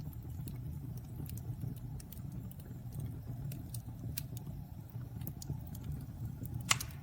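Wood fire burning in a fireplace: a steady low rumble of flames with scattered small crackles, and one louder pop near the end.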